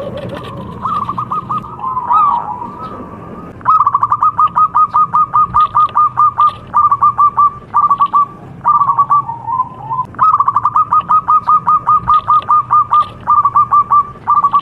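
Zebra dove (perkutut) singing: rapid runs of short staccato cooing notes, about six a second, in bursts broken by brief pauses. The notes are softer for the first few seconds, then louder. A steady low hum runs underneath.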